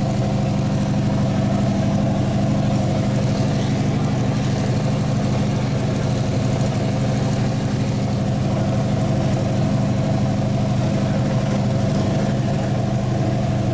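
A vehicle engine running steadily at an even speed, with no revving.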